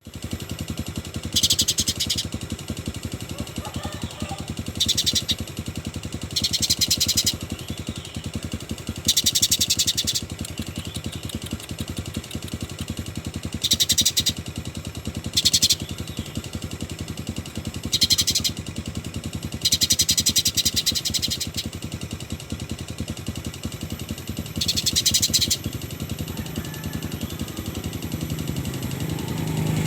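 A caged songbird singing sparrow-like chattering phrases ("isian greja") in excited fighting mode. It gives about nine short, high, fast-trilled bursts, each under two seconds, with pauses between. A steady low engine-like hum runs underneath.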